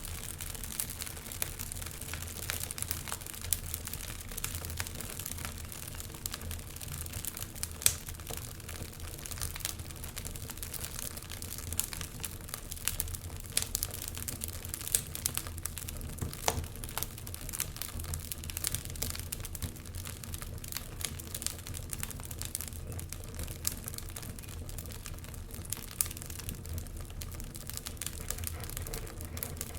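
Wood fire burning in a fireplace, with many irregular sharp crackles and pops over a low steady rumble; the loudest pops come about 8 and 16 seconds in.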